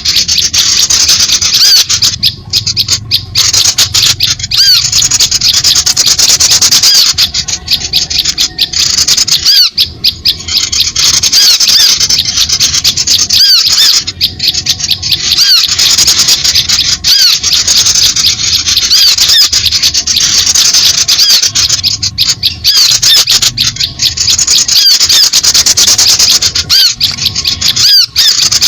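Dense chorus of many small birds chirping and twittering at once, loud and unbroken, with quick high notes overlapping throughout: a noisy small-bird flock recording of the kind used as a bird-trapping lure call.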